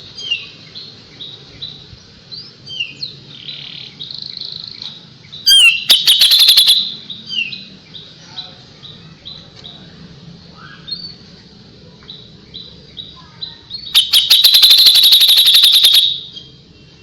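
Kapas tembak songbird singing a string of short, high, repeated notes about two a second, broken twice by a loud, rapid rattling burst about two seconds long: the sharp 'tembakan' (shot) phrase prized in masteran song for training murai batu.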